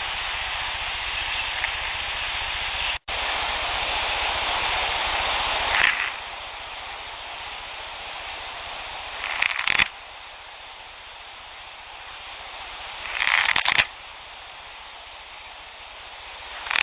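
Field audio recording of short, scratchy rasping bursts, each about half a second to a second long, coming every few seconds over a steady recorder hiss; the recordist calls this the scratch sound and attributes it to Sasquatch. The recording cuts briefly about three seconds in, and the hiss is quieter after that.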